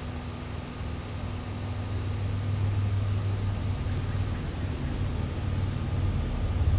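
TIG welder running while tacking steel: a steady low hum with hiss, growing louder over the first few seconds.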